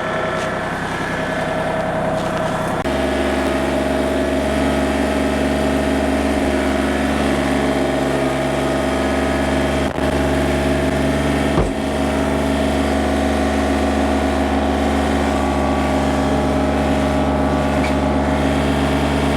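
Engine running steadily at constant speed, its tone dropping to a lower, even pitch about three seconds in, with a couple of faint clicks later on.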